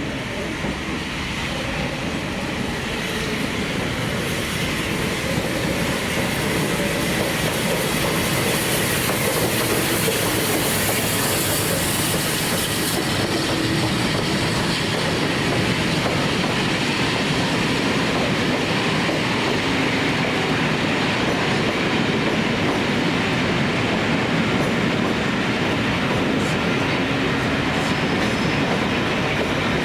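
A train passing close by, its wheels running on the rails in a steady rolling noise that builds over the first few seconds and then holds.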